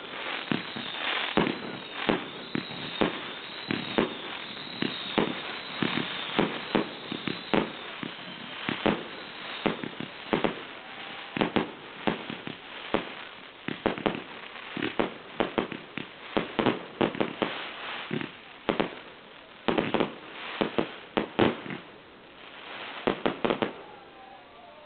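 Fireworks going off: a fast run of bangs with crackling between them, and high whistles in the first few seconds. The bangs thin out into a short lull about 22 seconds in, then a last quick cluster of bangs follows.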